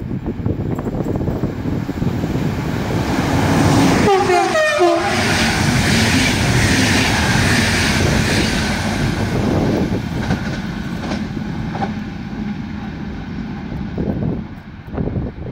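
Electric-hauled intercity passenger train passing through a station at speed. A short horn blast sounds about four seconds in as the locomotive nears. The loud rush of wheels on rail and passing coaches follows and slowly fades as the train moves away.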